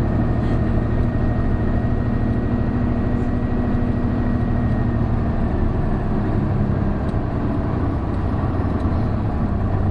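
Isuzu Erga PJ-KV234L1 route bus running under way, its turbo diesel engine drumming steadily, with a thin high whine over it that fades out about halfway through.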